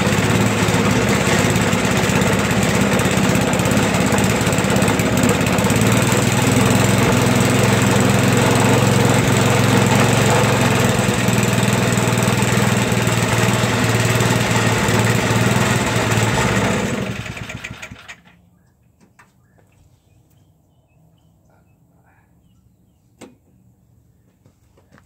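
Toro 421 snowblower engine running steadily, then shut off about seventeen seconds in and dying away over a second or so. A single faint click follows a few seconds later.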